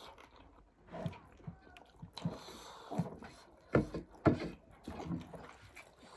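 Mealtime eating sounds: chewing and food being handled, with a few short knocks, the loudest a little before and after four seconds in.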